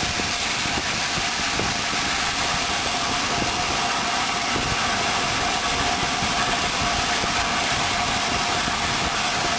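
Steady running noise of a railway train on the move, an even rumble and hiss that holds at one level throughout.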